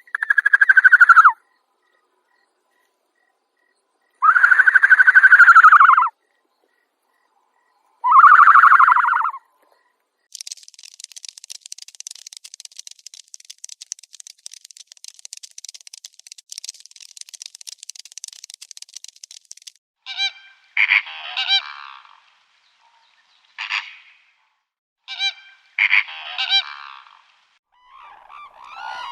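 A series of animal calls: three loud, drawn-out calls that arch in pitch, a few seconds apart, then a long, rapid, high buzzing trill, then a run of short, sharp calls near the end.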